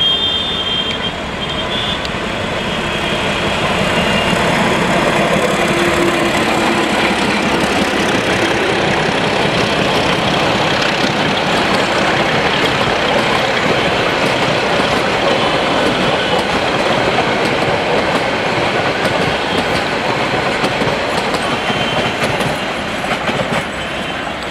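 Diesel-hauled passenger train passing close by: the locomotive comes up over the first few seconds, then a long string of coaches goes past with the steady noise of wheels running on the rails, easing slightly near the end as the train draws away.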